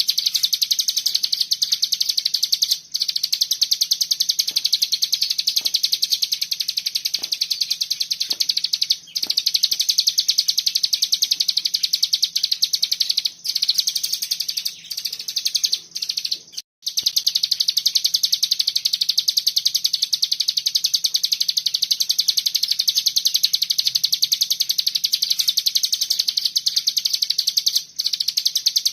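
A cigun (ciblek gunung, a prinia) singing its dense 'bren' song: a continuous, very fast high-pitched buzzing trill, broken only by a few brief pauses.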